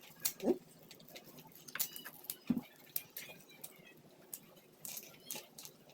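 Close-miked chewing on boiled Japanese sweet corn on the cob: wet mouth smacks and crisp bites of kernels at irregular intervals.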